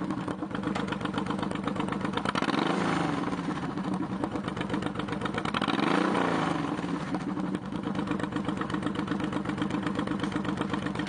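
2005 Honda VTX1800C's liquid-cooled, fuel-injected V-twin idling through a Vance & Hines straight exhaust, blipped twice, about three and six seconds in, the revs rising and falling back each time before it settles to a steady idle.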